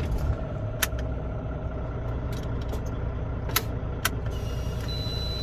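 Semi-truck diesel engine running with a steady low rumble, a few sharp clicks over it, and a steady high-pitched beep that starts near the end.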